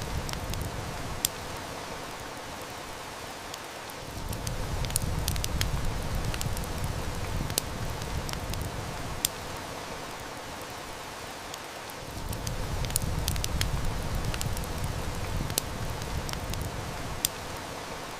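Heavy rain falling in a steady hiss, with a wood fire crackling and giving scattered sharp snaps. A low rumble swells up and dies down twice.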